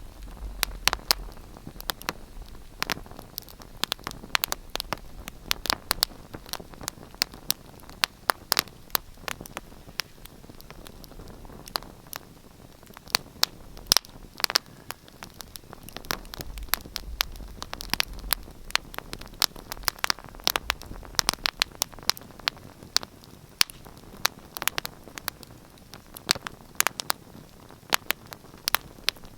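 Wood fire crackling in a fireplace: irregular sharp pops and snaps, often several a second, over a soft steady hiss of the flames.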